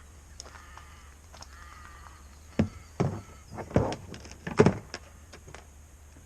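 A few short pitched calls in the first two seconds, then a run of loud, sharp knocks and thumps from about two and a half to five seconds in.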